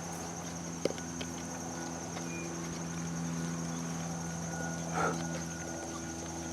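Vizsla puppy licking out a plastic yogurt cup, with soft taps and scrapes of the cup: a sharp tick about a second in and a short scuffle around five seconds. A steady low hum with a thin high-pitched tone runs underneath.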